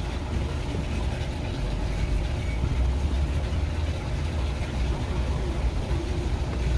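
A steady low rumble, like a motor or engine running.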